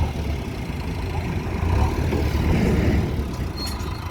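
Heavy diesel engine running steadily, a low-pitched sound without breaks.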